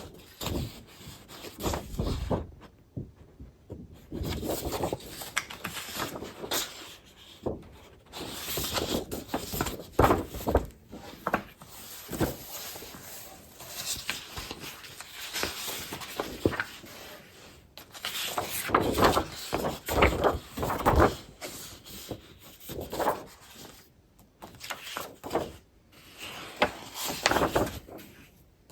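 Paper crafting supplies being handled: sheets of paper and packaging shuffled and rustled in irregular bursts, with occasional light knocks.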